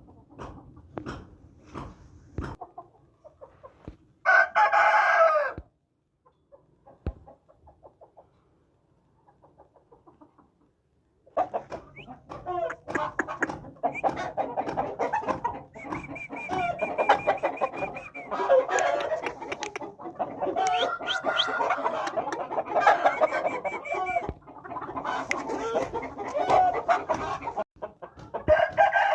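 Aseel game chickens calling: a rooster crows once briefly about four seconds in. After a quiet stretch, from about eleven seconds on, there is a long, dense run of overlapping clucking and crowing, with one more crow near the end.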